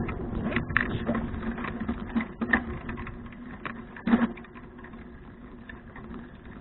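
A bicycle ticking and rattling as it rolls, with a few louder knocks in the first half. It grows quieter after about four seconds.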